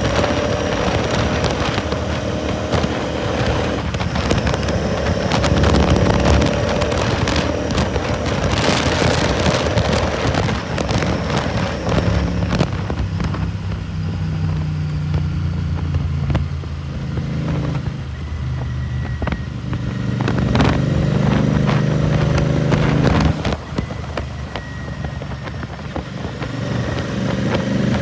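Royal Enfield Continental GT 650's parallel-twin engine running through a Red Rooster aftermarket exhaust while riding, its note rising and falling with the throttle, with wind rushing over the microphone. The engine note is steadiest in the middle and gets quieter a little before the end.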